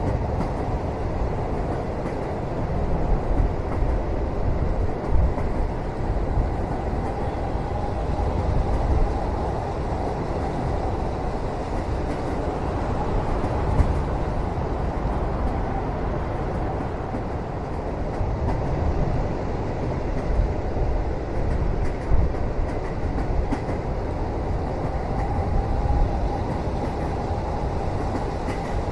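Moving train heard from inside a carriage: a steady low rumble of wheels on the track, with a few louder knocks and jolts at uneven moments.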